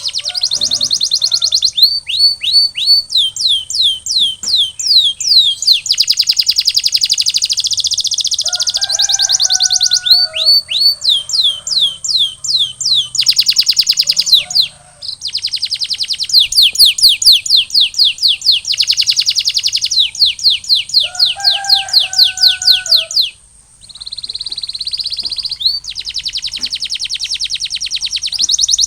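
Male canary singing long, rapid trills of repeated sweeping notes, phrase after phrase, with two short breaks, one about halfway and one about three-quarters of the way through. A couple of lower, shorter chirps sound under the trills.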